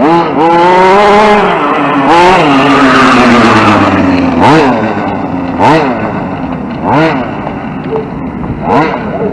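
Radio-controlled short course truck's motor revving: a long run with the pitch rising and falling over the first four seconds, then short throttle blips that climb and drop, about one every second or so.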